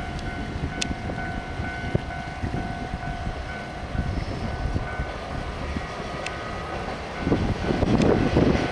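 Distant diesel railcars pulling away from a station, a low engine rumble with a steady high tone over it for the first several seconds. The rumble grows louder about seven seconds in.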